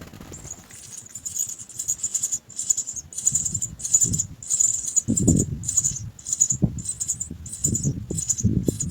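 House sparrow nestlings giving high-pitched begging calls, repeated about twice a second, over rustling and soft thumps from movement in the nest that grow louder about halfway through.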